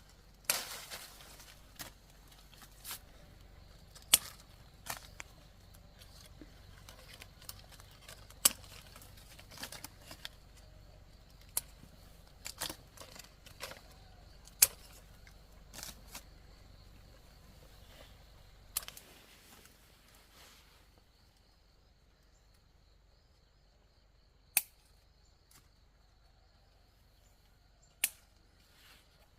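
A series of sharp, irregular clicks and knocks, some loud, coming every second or so, then growing sparse about two-thirds of the way through, over a faint steady background.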